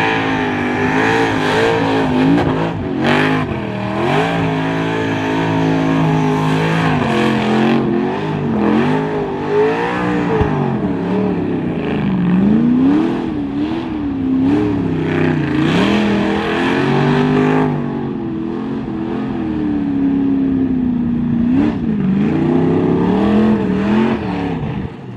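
Supercharged burnout car's engine revving hard at high rpm through a burnout, its pitch swinging up and down again and again as the throttle is worked.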